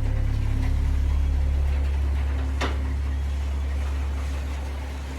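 A steady, very low machine hum that fades slowly, with one sharp click about two and a half seconds in.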